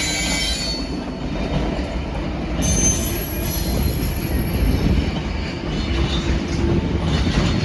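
Freightliner class 66 diesel freight train passing, its wagons rolling by with a steady low rumble. A high-pitched wheel squeal comes in about three seconds in.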